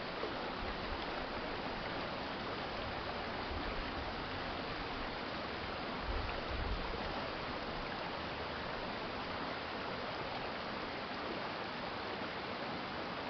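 Water of a shallow urban stream flowing and rushing steadily, with a brief low rumble a few times, the strongest about six seconds in.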